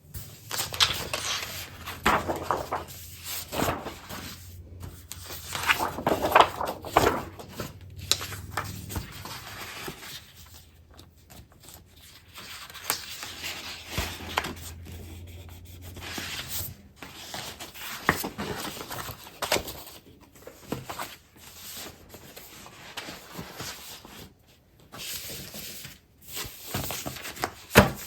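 Sheets of scrapbook paper and packaged craft supplies being shuffled, slid against each other and set down, making irregular rustling swishes with occasional crinkles and light taps.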